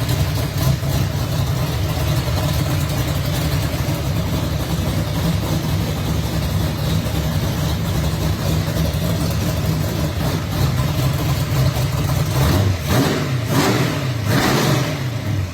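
A gasser drag car's engine idling with a steady low rumble, then revved a few times near the end.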